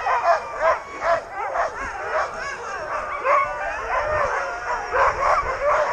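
A pack of sled dogs barking, yipping and howling all at once in an overlapping din, the excited noise of a team in harness waiting to run.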